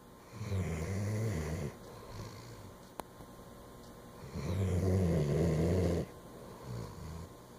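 Sleeping dog snoring: two long, rasping snores a few seconds apart, with softer breaths between them.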